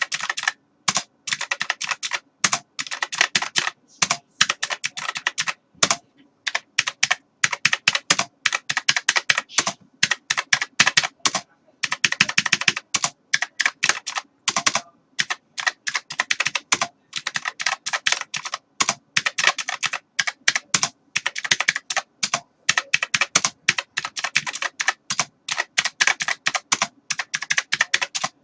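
Continuous typing on a computer keyboard: rapid, irregular key clicks in runs, with short breaks between bursts.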